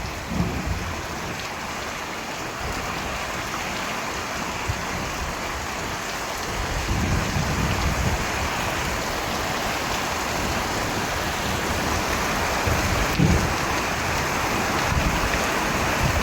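Steady heavy rain falling, with low rolls of thunder rumbling about halfway through and again near the end.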